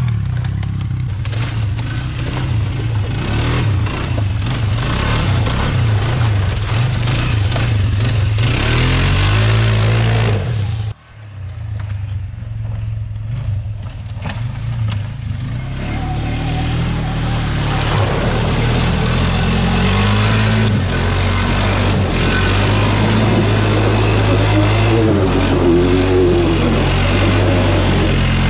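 Pit bike engines running and revving, their pitch rising and falling. The sound breaks off sharply about 11 seconds in and picks up again.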